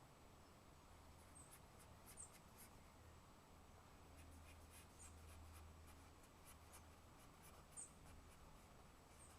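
Quiet drawing strokes on paper, a soft irregular scratching as a preparatory drawing is worked up. Faint high, short chirps that glide downward repeat every two to three seconds.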